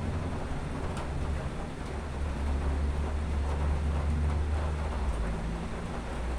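Distant thunder rolling low, swelling for a couple of seconds in the middle, over a steady hiss.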